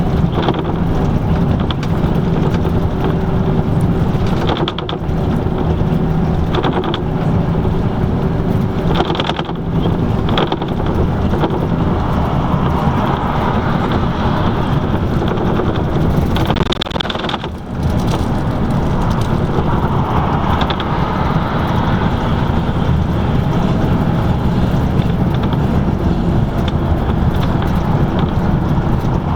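LiAZ-5250 bus heard from inside the cabin while driving: a steady diesel engine hum with road and tyre noise and scattered rattles. The engine note drops away briefly a little past halfway.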